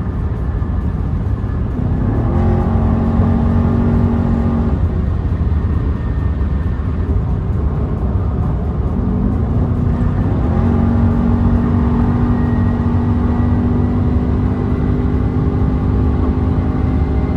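Car engine and road noise while driving at speed; the engine note rises twice, about two and ten seconds in, then holds steady.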